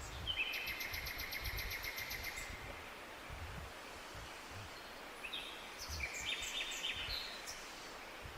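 Songbirds singing in the forest: two quick phrases of rapidly repeated notes, each about two seconds long, over a steady background hiss.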